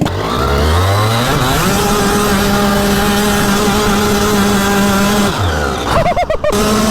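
A go-kart's engine accelerating, rising in pitch, then holding steady at high revs for a few seconds before the revs drop off about five seconds in. A brief warbling disturbance follows shortly before the end.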